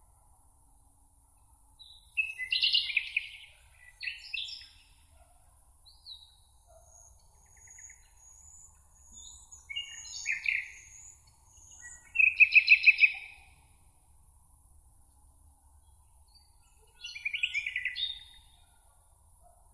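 Songbirds singing in a meadow: several short trilled song phrases a few seconds apart, with a loud one about two-thirds of the way through, and thin high notes in between.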